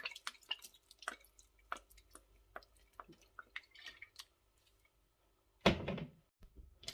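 Fish sauce dripping and splashing onto raw chicken wings in a bowl: many small, irregular wet ticks. A louder single knock follows near the end.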